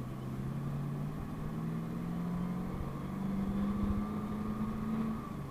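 PAZ-32054 bus engine pulling under acceleration, its note rising steadily for about five seconds, then dropping suddenly near the end at a gear change.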